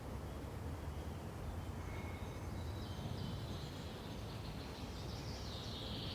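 Forest ambience: a steady low rush of wind-like noise with scattered high bird chirps, and a busier bird song building up toward the end.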